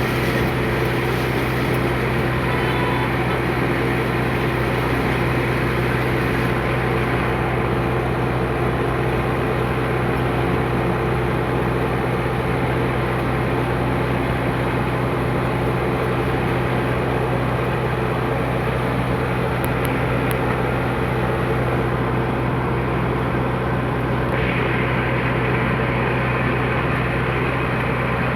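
Tractor engine running steadily at a constant speed, a continuous low drone.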